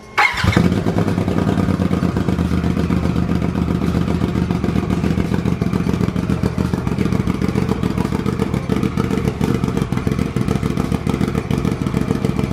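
Turbocharged Polaris RZR 1000 engine on its first start after a rebuild: a brief crank, then it catches about half a second in and idles steadily with a fast, even exhaust beat, sounding smooth with no knock.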